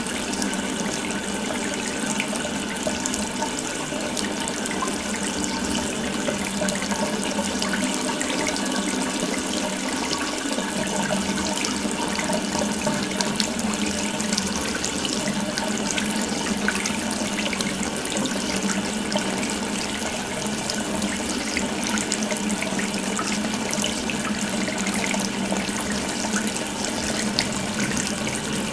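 Tap left fully open, water running in a steady stream with an even, unbroken splashing hiss.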